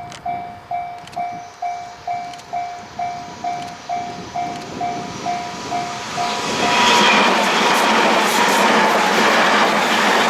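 Japanese level-crossing warning bell ringing about twice a second as a Tobu 100 series Spacia electric express approaches. About seven seconds in, the bell gives way to the loud, steady rush of the train passing close by, wheels running on the rails.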